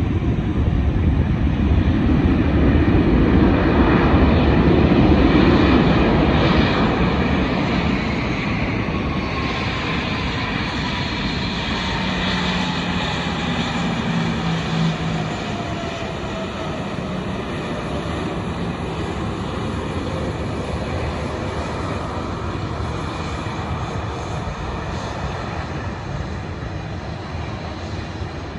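Airliner flying past: engine noise swells to its loudest a few seconds in and then slowly fades, with a whine that falls steadily in pitch as it goes by.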